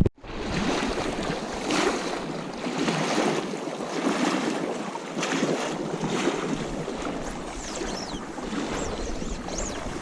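Rushing river water with wind buffeting the microphone, a steady hiss that swells and eases, and a few faint high chirps near the end.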